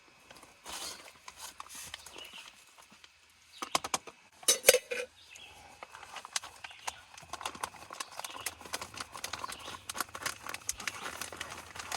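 Scattered clicks, taps and rustling from handling camp cooking gear and a dehydrated-meal food pouch at close range, with a cluster of loud knocks about four to five seconds in.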